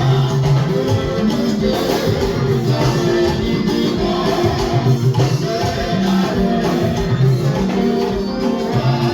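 A church hymn sung by a congregation with instrumental and percussion accompaniment, with steady held notes over a continuous beat.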